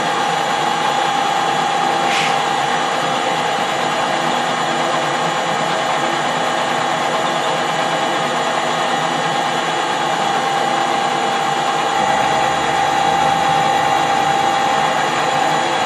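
Metal lathe running under power feed while its tool takes a cut along a small bar: a steady whine from the motor and gearing that holds unchanged throughout.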